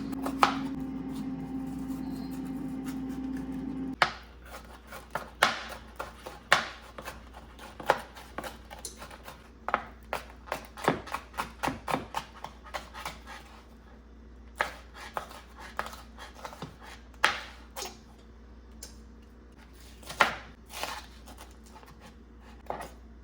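A steady hum with a low tone stops abruptly about four seconds in. After that come scattered sharp knocks and clicks of food preparation on a kitchen counter, such as knife strokes on a cutting board, a few a second and irregular.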